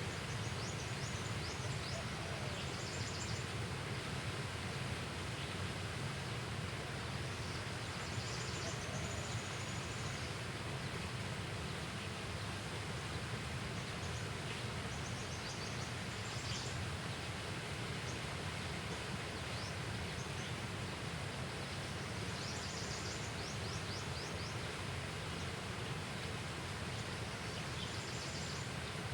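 Steady outdoor ambience, an even hiss, broken every few seconds by short bursts of high, rapid chirping calls.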